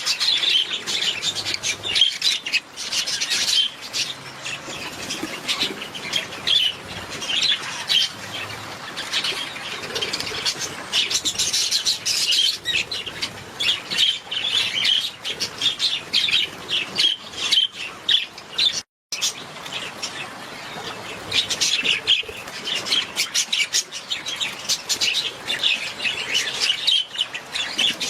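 Many budgerigars chirping and chattering at once, a dense, continuous twittering of overlapping calls. It breaks off for a split second about two-thirds of the way through.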